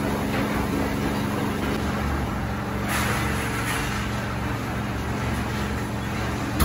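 An engine running steadily with a constant hum, and one sharp knock at the very end.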